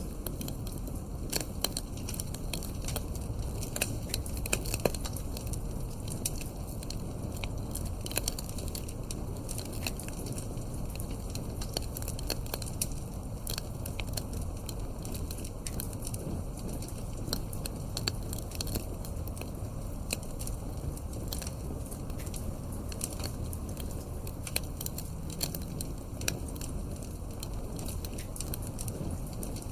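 Wood burning in a fireplace: frequent small pops and crackles over a low, steady rumble of the fire.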